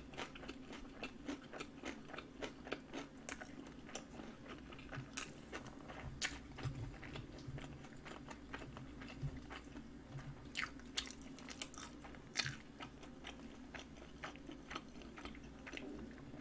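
Close-up mouth sounds of chewing kimchi and rice: irregular small wet clicks and soft crunches, a few louder crunches in the middle.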